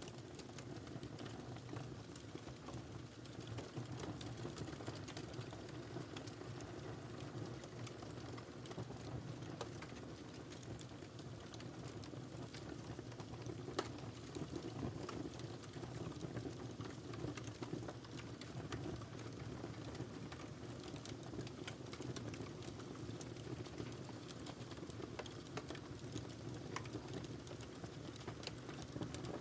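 Wood fire crackling in a fireplace: a steady low rumble of burning under scattered sharp pops and snaps, with one louder pop about halfway through.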